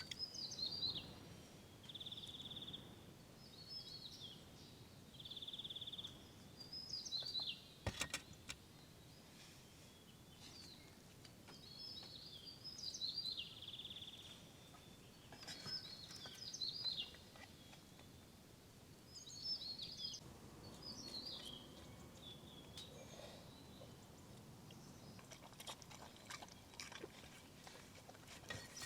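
Wild songbirds singing short, high chirping phrases every couple of seconds, with a buzzing trill a few times in the first seconds. A single sharp click about eight seconds in.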